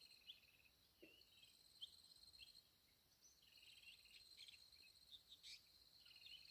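Faint insects chirping: a steady high-pitched drone with pulsing trills that come and go, and a few short chirps.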